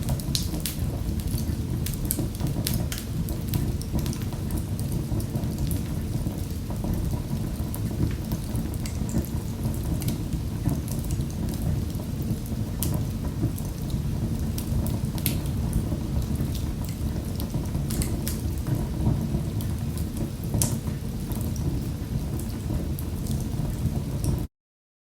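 Wood fire crackling in a fireplace: many sharp pops and crackles over a steady low rumble of the flames. The sound cuts out briefly near the end.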